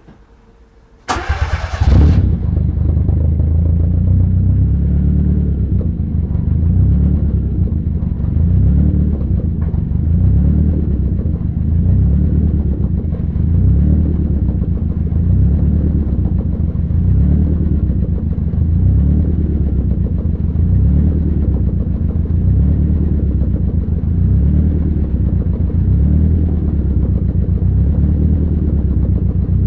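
Fiat Punto GT's turbocharged four-cylinder engine cold-started on E85 at about 5 °C. It fires about a second in with a brief loud flare, then settles into a steady idle.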